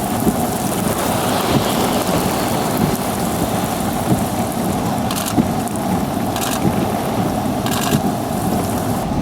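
Thunderstorm rain falling steadily, with a low rumble underneath and three brief crackles in the second half.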